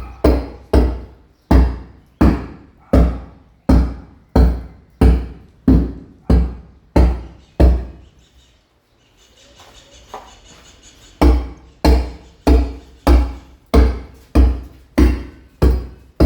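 Mason's hammer striking a chisel, chipping a masonry wall, in even blows about one every three-quarters of a second. The blows stop for about three seconds in the middle, leaving only a faint hiss, then start again a little faster.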